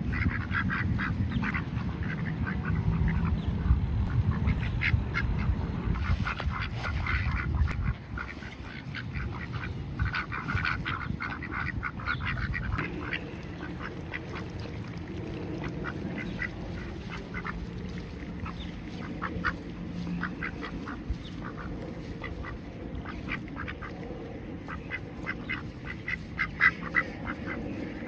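Ducks quacking, many short calls one after another, over a low rumble that stops about eight seconds in.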